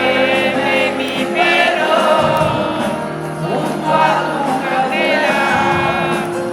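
Live pop-rock band music from a concert, with a melody sung or played in phrases over sustained chords, sounding like voices singing together.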